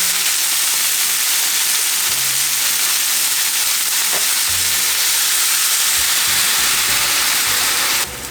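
Food frying in hot oil in a pan: a loud, steady sizzle that drops away abruptly about eight seconds in.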